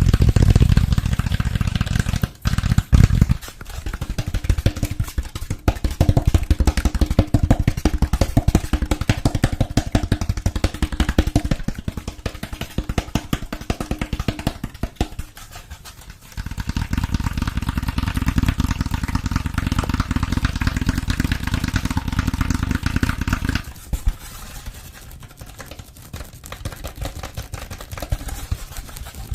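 Rapid, close-miked ASMR tapping and scratching, a dense stream of quick strokes. The pattern changes every several seconds, with short breaks about two and a half and sixteen seconds in, and grows quieter in the last few seconds.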